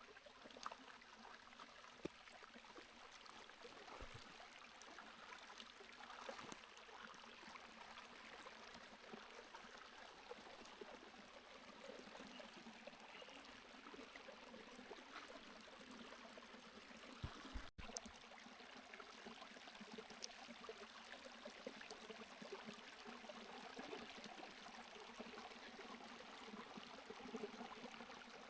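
Near silence with faint, steady trickling of a stream, and a few soft clicks scattered through it.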